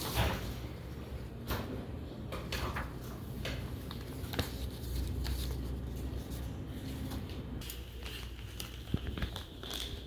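Small household handling sounds in a small room: scattered light clicks, taps and crinkling over a steady low hum.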